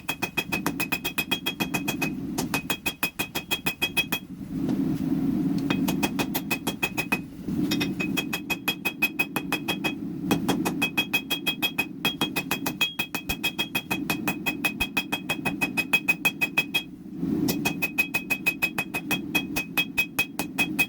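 Hammer blows on a hot Damascus steel billet on an anvil: quick, even strikes, several a second, each with a bright metallic ring, pausing for a few seconds twice. A steady low rumble runs underneath.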